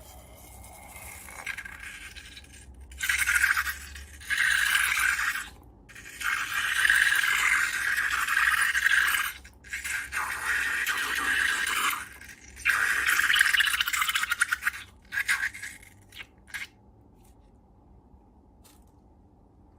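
Scraping and rubbing noise in several bursts a second or few long, as long balloons and slime are handled. It stops about three-quarters of the way through.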